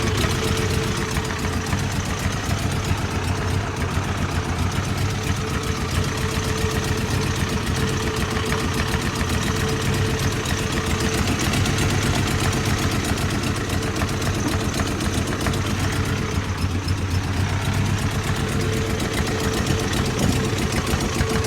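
Toyota 22R four-cylinder engine idling roughly at a steady speed, with a faint steady whine over the running. The owner traces the rough idle to the distributor's ignition timing being set far out of its proper position.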